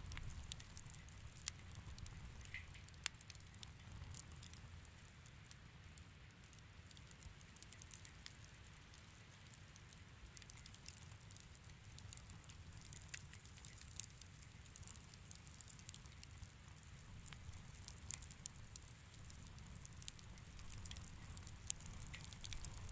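Wood fire crackling softly in a fireplace: frequent small, irregular pops over a low steady rumble, with a sharper pop about three seconds in.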